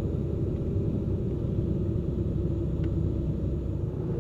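Cessna P210N's turbocharged six-cylinder piston engine running at low taxi power: a steady low drone heard from inside the cockpit.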